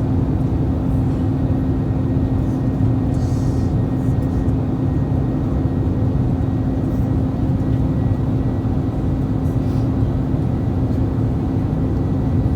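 Steady cabin noise inside an Airbus A321-231 airliner: a continuous low rumble of engines and airflow with a constant hum running through it.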